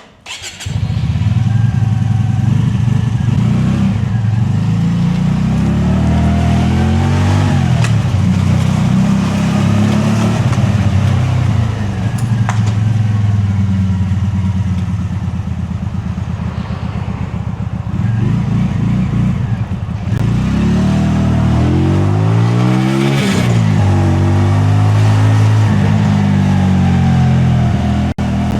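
Sport bike engine starting up abruptly and running at idle, with the revs rising and falling several times, most clearly a few seconds in and again past two-thirds of the way through.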